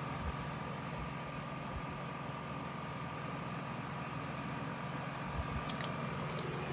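Senville mini-split heat pump running: a steady low hum with a faint, constant high whine over it.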